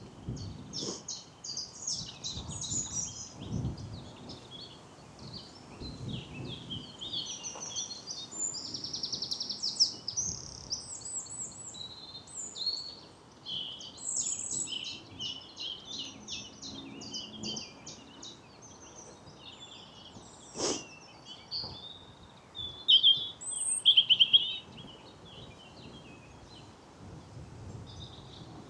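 Spring woodland birdsong from several birds singing at once: quick chirps, warbles and a fast rattling trill about nine seconds in. Soft walking footsteps run underneath, and a sharp click comes about two-thirds of the way through.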